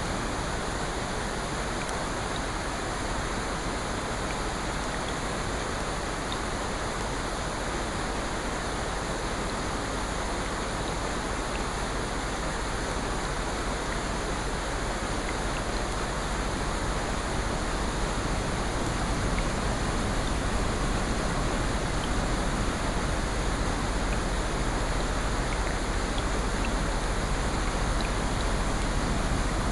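Steady rushing water ambience with a few faint scattered ticks, growing slightly louder in the last third.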